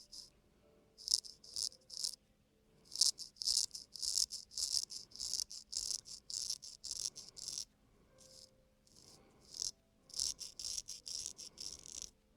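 Razor blade scraping across a man's face in short, quick strokes, in runs separated by brief pauses: the first pass of a face shave.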